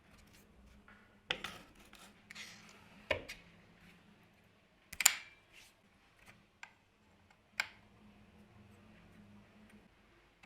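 A few separate sharp knocks and clicks of hand work in a workshop, the loudest about halfway through, over a faint steady low hum.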